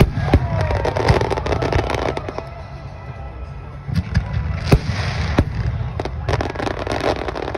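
A fireworks display: aerial shells bursting, with dense crackling that comes in waves and several sharp bangs, the loudest about five seconds in, over a steady low rumble.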